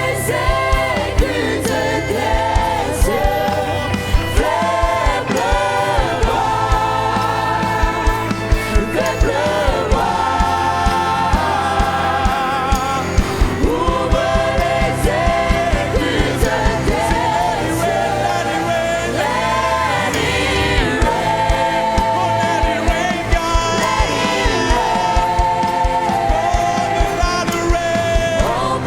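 Gospel worship music: voices singing a slow melody over a band with bass and a steady drum beat.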